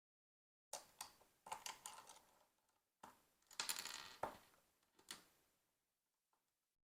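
Small plastic LEGO pieces clicking and clattering against each other in two busy runs of rapid clicks, about a second in and again about three seconds in, with a single click near five seconds.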